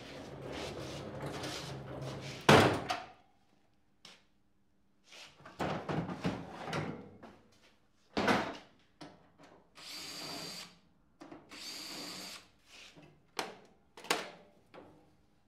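Workshop clatter: a run of knocks and handling noises, the loudest a sharp bang about two and a half seconds in. Two one-second runs of a small power tool, such as a drill or driver, come about ten and twelve seconds in, with a few clicks near the end.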